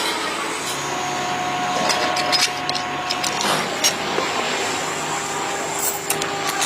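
Machinery running steadily, a noisy hum carrying a few thin whining tones, with several sharp metallic clicks along the way.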